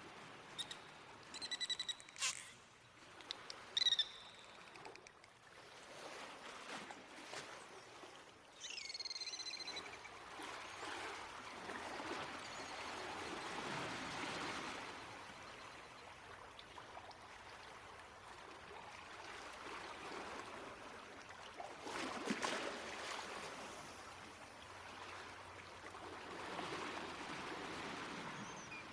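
Dolphin whistles and clicks over a rising and falling wash of water noise: several short whistles in the first few seconds, a curved, falling whistle about nine seconds in, and a louder surge of noise about twenty-two seconds in.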